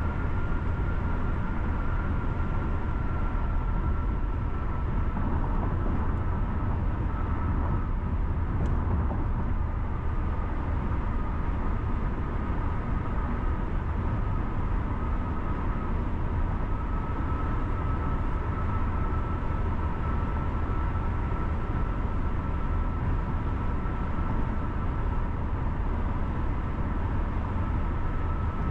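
Car driving on a city road: a steady low rumble of tyre and engine noise, with a faint thin whine held steady above it.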